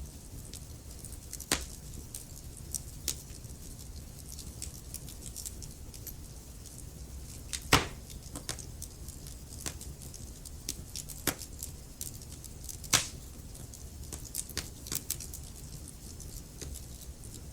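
Wood fire crackling in a fireplace: irregular small snaps and ticks, with a few louder pops scattered through, over a low steady rumble.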